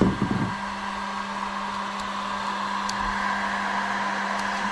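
Heat gun blowing steadily, a constant whirring hiss with a low hum, while it heats milk-carton plastic to weld a patch onto a plastic kayak hull.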